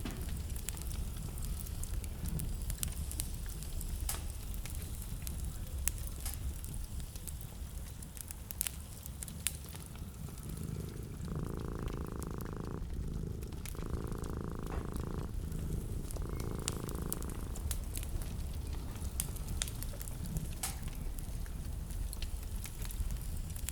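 Wood fire crackling in a fireplace, with scattered sharp pops over a low steady rumble. About halfway through come three short, evenly spaced muffled bursts of about a second and a half each.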